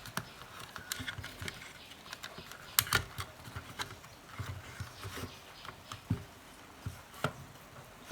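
Scattered light clicks and taps of hands handling radio parts and wiring during a repair, irregular, the loudest about three seconds in.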